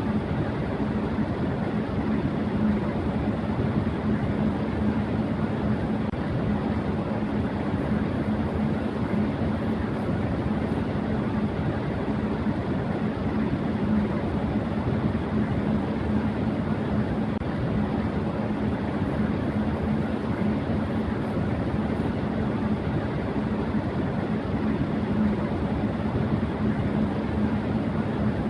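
Electric fan running at high speed: a steady rush of moving air with a constant low motor hum underneath.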